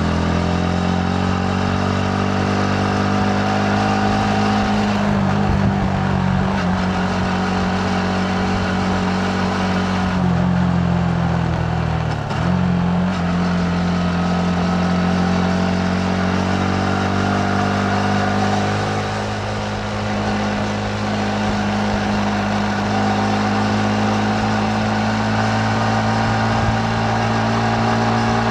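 Yamaha MT-15's single-cylinder engine running under way, its note rising and falling gently with the throttle over road and wind noise. There is a brief sharp dip in the engine note about twelve seconds in.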